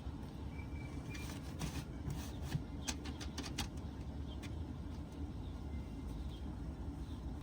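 Scattered light clicks and taps from handling an adjustable support column, over a steady low rumble.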